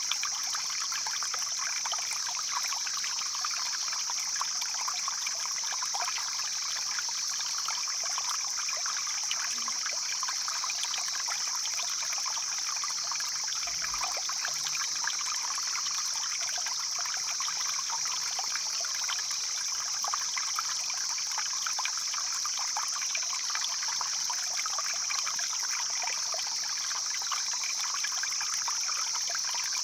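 Mountain stream flowing steadily, an even rushing and trickling of water.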